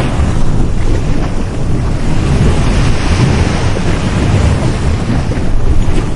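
Sea waves breaking and washing on a beach, with heavy low rumble from wind buffeting the microphone.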